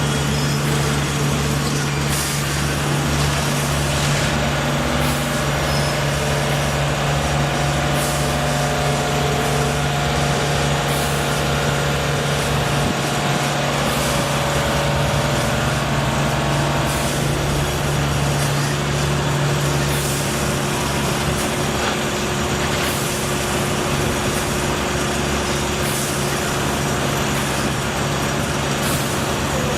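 A large engine running steadily at a constant speed, with a continuous low hum and a few faint ticks over it.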